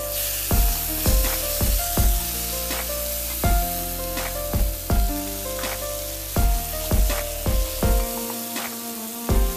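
Ground chili spice paste sizzling in hot oil in a pan as it is stirred with a spatula, under background music with a steady beat that gives the loudest moments.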